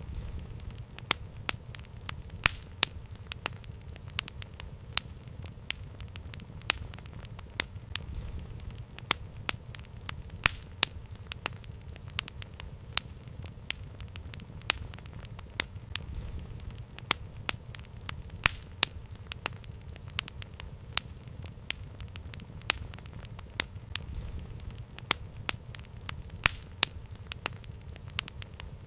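Campfire crackling: frequent, irregular sharp pops and snaps over a steady low rumble of the flames.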